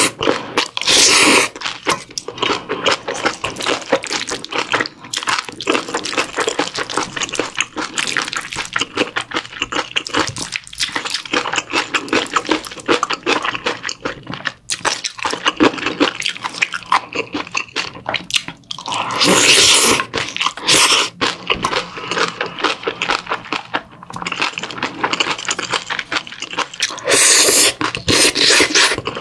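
Close-miked chewing of mouthfuls of bibimbap with crunchy julienned radish salad and kimchi: wet, crackly mouth sounds with crunching, and a few louder noisy bursts near the start, about two-thirds through and near the end.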